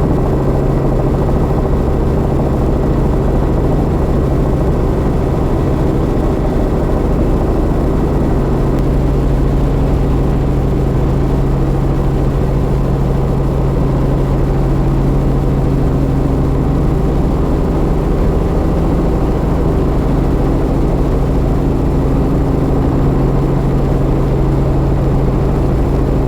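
Robinson R44 helicopter running: a steady, unbroken drone of its piston engine and rotor.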